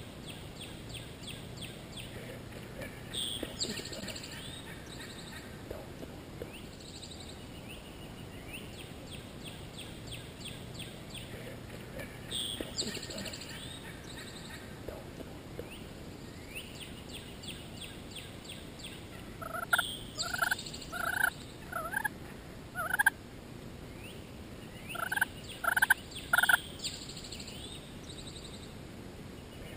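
Wild turkey calling in the woods, with two loud runs of short repeated notes, five then four, in the second half over a steady background of small-bird chirping. Shorter, fainter calls come a few seconds in and again about 12 seconds in.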